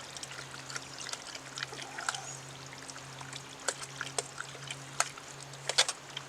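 A pot of sauce cooking over a campfire, with scattered sharp pops and crackles over a steady low hum.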